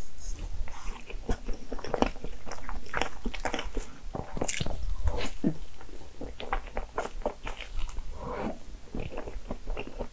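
Chewing and mouth sounds of someone eating a crepe cake layered with whipped cream: a dense run of short clicks and smacks.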